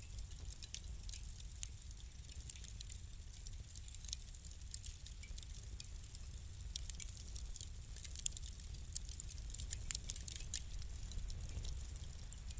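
Wood fire burning in a fireplace, crackling with irregular sharp pops and snaps over a low steady rumble; the pops come thicker and louder in the second half.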